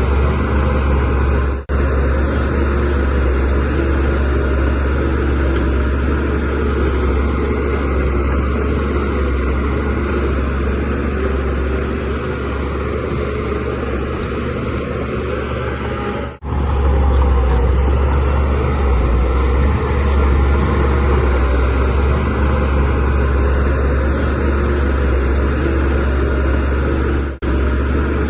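Shantui DH17C3 Pro bulldozer's diesel engine running as it works, a steady heavy drone. The sound drops out sharply and briefly three times: a little under two seconds in, about halfway, and near the end.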